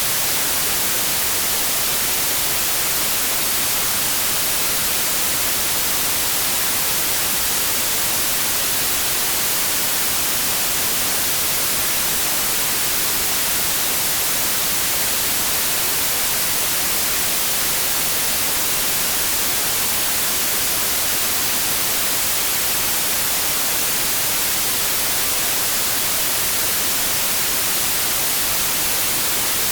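Steady synthetic white noise: an even hiss with no changes, brightest in the highs.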